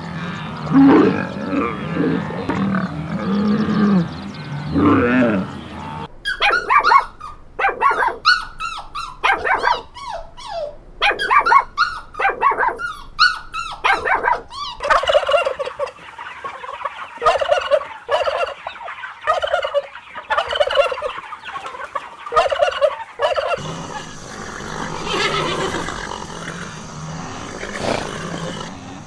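Farm animals calling in turn, several different kinds one after another: low calls first, then shrill sweeping cries, then a run of short repeated calls.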